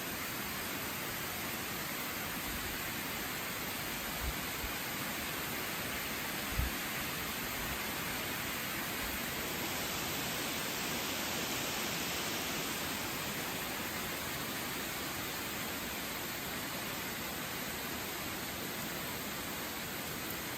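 Steady rain falling in a storm, an even hiss, with two brief low thumps about four and six and a half seconds in.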